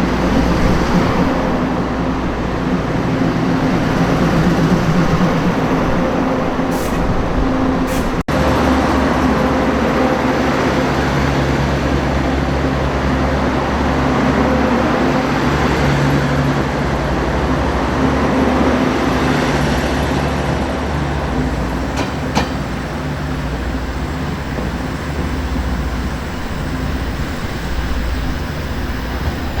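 Taiwan Railways DR1000-series diesel railcar running, a steady diesel engine drone over wheel and rail rumble, with a brief break about eight seconds in.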